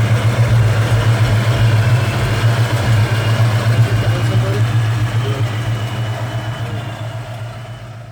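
Car engine idling with a steady deep exhaust drone, fading away over the last few seconds.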